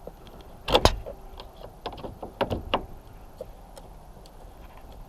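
A few sharp clicks and knocks of metal parts being handled while a car spotlight and its mounting bolt are fitted. The loudest is a quick double knock about a second in, followed by several lighter clicks.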